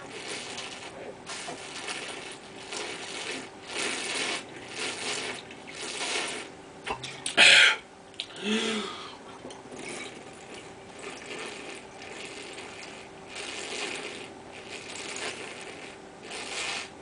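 A man chugging wine straight from the bottle: a steady run of gulps and glugs, about one a second, broken by a sharp breath about seven seconds in before the gulping resumes.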